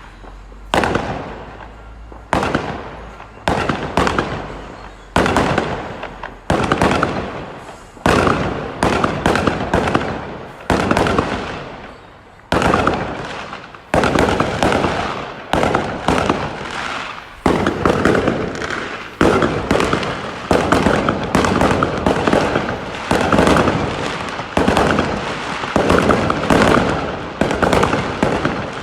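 Fireworks exploding overhead: a string of sharp bangs, each dying away with an echo, spaced a second or two apart at first and then coming faster and overlapping, with crackling between them.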